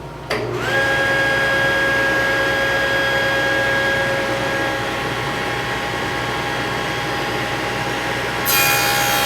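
Table saw with a dado stack starting up, its whine rising briefly and settling into a steady run; near the end the dado stack cuts into cedar, with a louder, higher rush of noise.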